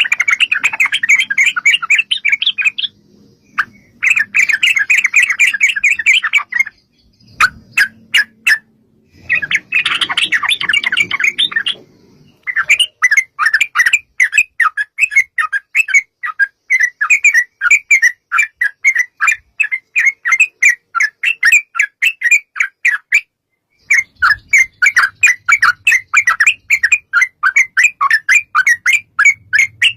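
Yellow-vented bulbuls (trucukan) singing. The first part is bursts of fast, dense chattering song, broken by a few sharp clicks. After that comes a long run of rapid repeated notes at about three to four a second, with a short break near three-quarters of the way through.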